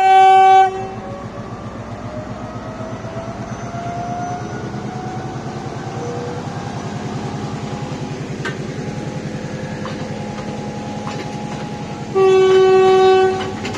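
Diesel passenger train sounding its horn in a short blast, then running on steadily as it pulls away slowly, with a faint rising whine and a few sharp clicks of wheels over rail joints. A second, longer horn blast comes about twelve seconds in.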